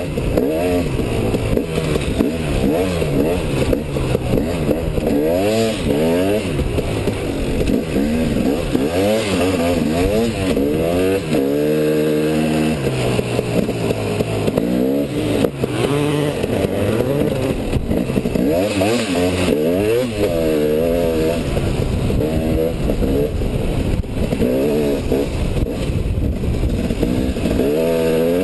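Enduro motorcycle engine ridden through sand, its pitch climbing and dropping again and again as the throttle is opened and closed through the gears. About twelve seconds in it holds one steady note for a second or so.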